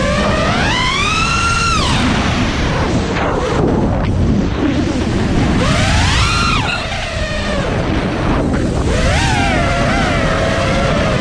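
Motors of an iFlight Nazgul FPV quadcopter whining, their pitch swooping up and falling back three times as the throttle is punched and eased, over a heavy rumble of wind on the microphone.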